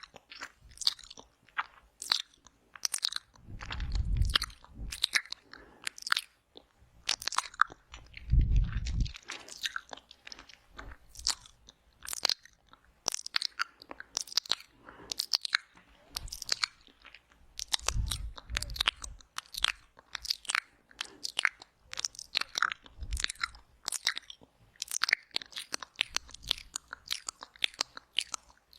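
Close-miked wet mouth sounds for ASMR "ear eating": quick lip smacks, tongue clicks and sucking noises, several a second. A few short low thuds come in between them.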